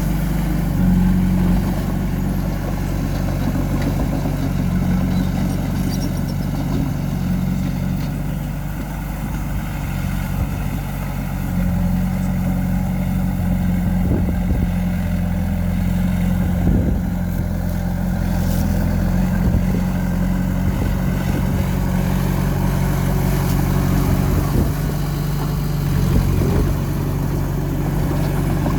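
Heavy diesel engine of earthmoving machinery running steadily under work, its pitch shifting a few times as the load changes.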